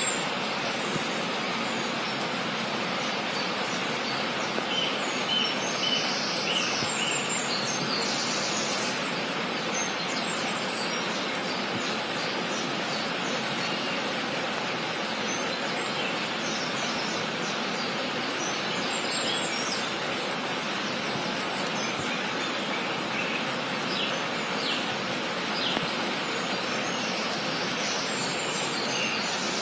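Birds chirping with short high calls now and then, over a steady, even hiss.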